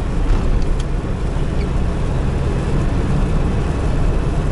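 GAZelle Next van driving at a steady pace: a constant low rumble of engine and road noise.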